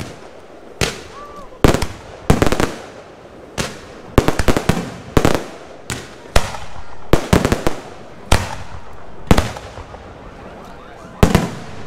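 Aerial firework shells bursting overhead, a sharp bang about once a second, several followed by a spray of crackling.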